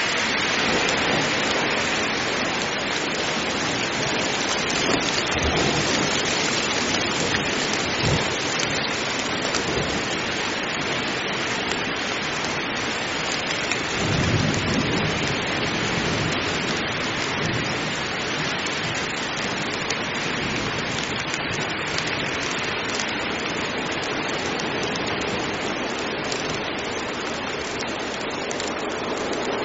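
Heavy rain falling steadily, with low rolls of thunder underneath, the strongest about fourteen seconds in.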